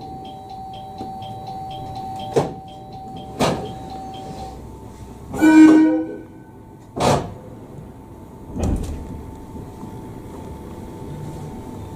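Electric commuter train waiting at a stop signal, heard on board: a steady electronic tone with fast ticking for the first few seconds, then several sharp clunks and a louder burst about halfway through, over the train's low hum.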